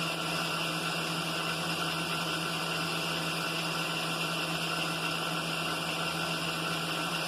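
Milling machine spindle running steadily with a boring head and bar taking a very light finishing cut, just breathing on the bore.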